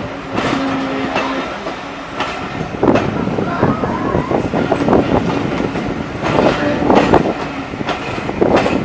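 A train of empty passenger coaches rolling slowly out of the station, its wheels clacking and the couplings and bogies rattling, with the clatter growing busier from about three seconds in.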